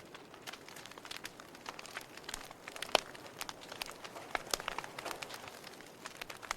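Wood fire in a fireplace crackling, with irregular small pops and snaps over a soft hiss, and one sharper pop about three seconds in.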